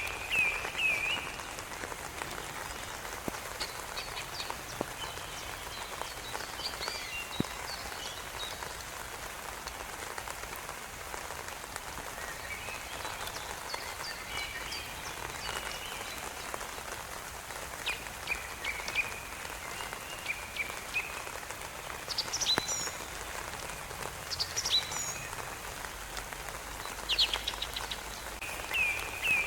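Songbirds singing: short phrases of quick chirps and whistled notes come every few seconds over a steady background hiss.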